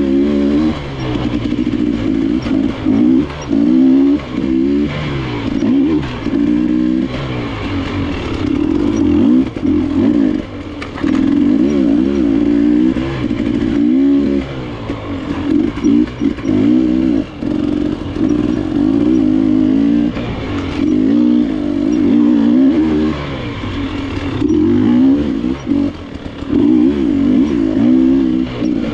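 Enduro dirt bike engine, likely a KTM, revving up and falling back over and over as it is ridden through the trail, with rattle from the bike.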